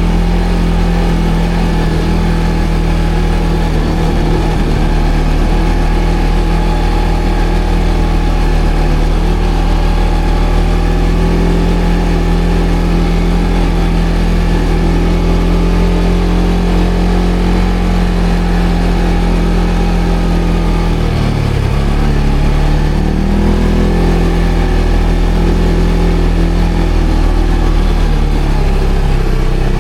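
ATV engine running with a steady note for most of the time. About two-thirds through, the revs dip and then rise, and they climb again near the end.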